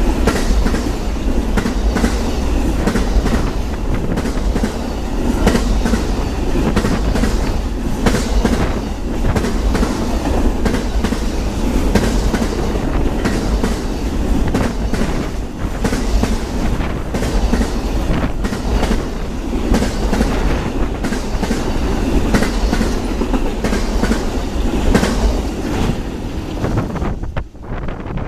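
Amtrak Auto Train cars rolling past at speed: a steady rumble of wheels on rail with rapid clickety-clack over the joints. The sound drops off sharply near the end.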